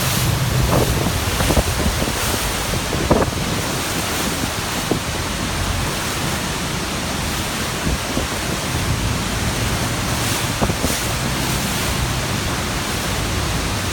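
Steady roar of a large waterfall and rushing water, with wind buffeting the microphone. Underneath, a boat's engine hums low, strongest at the start and again about two-thirds of the way through.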